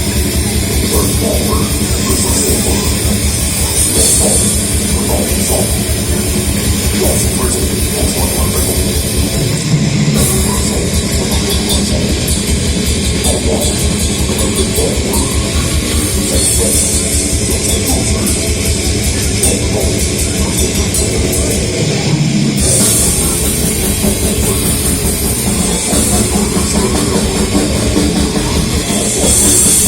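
Heavy metal band playing live, with fast, driving drums under loud band sound. The cymbals drop out briefly twice, about ten seconds in and again a little past twenty seconds.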